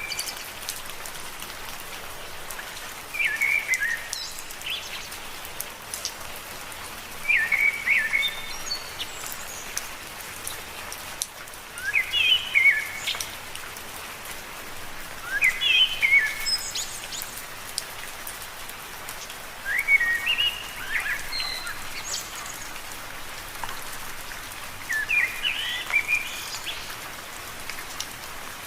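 Steady rain falling on leaves. A short chirping call comes back about every four seconds, the loudest sound each time.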